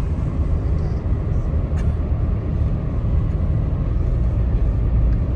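Car driving: a steady low rumble of road and engine noise, with a faint click about two seconds in.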